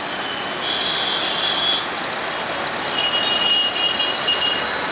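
Bangladesh Railway diesel-hauled passenger train rolling in on curved track over a steady rumble of traffic, with high-pitched wheel squeals that come and go, twice, each lasting about a second.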